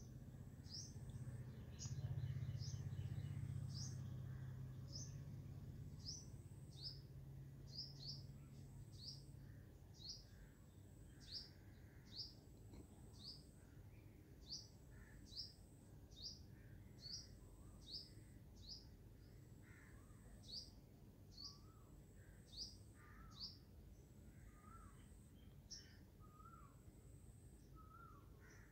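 A small bird chirping over and over, short high downward chirps about twice a second, faint, with softer lower wavering calls joining near the end. A low hum is loudest a couple of seconds in and fades out by about nine seconds.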